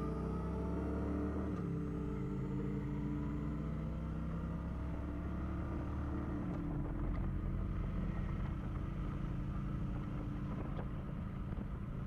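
Kawasaki Vulcan motorcycle engine running under way, its pitch shifting as the rider changes speed.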